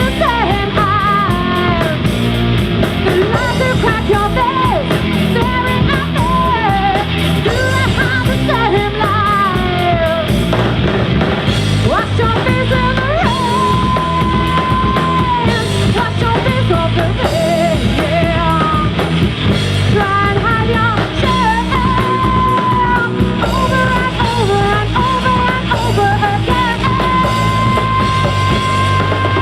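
Rock band playing live with drum kit, bass and guitar, through an instrumental passage of the song. A bending, sliding lead melody runs over it, holding long notes now and then.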